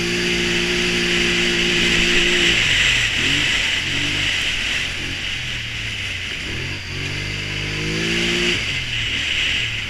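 Polaris Sportsman Touring 1000 ATV engine running hard at steady high revs, then easing off about two and a half seconds in. It revs up again with a rising pitch about seven seconds in and drops back near the end, with a steady hiss throughout.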